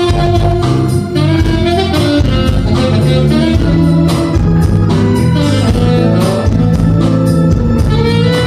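A live band playing music, with drums keeping a steady beat under bass and sustained melody notes.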